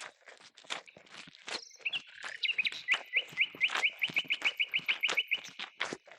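A small bird singing a fast trill of short rising notes, about five or six a second, for roughly three seconds in the middle. Irregular clicks and knocks run throughout.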